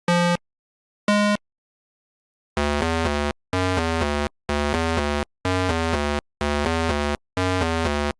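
Synthesizer tones: two short single beeps about a second apart, then six short phrases of three quick notes each, repeating about once a second with silence between.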